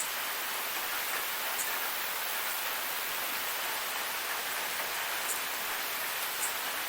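Forest waterfall: water falling and splashing in a steady, even hiss, with a few faint high ticks about five and six seconds in.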